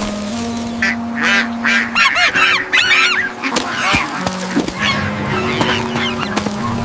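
A duck giving a rapid run of loud, honking quacks for a few seconds, then a few sparser calls.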